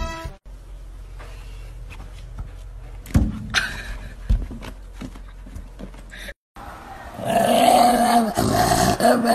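A dog's voice, loud and drawn out, quivering rapidly, in the last two seconds, after a quiet stretch with a few brief noises.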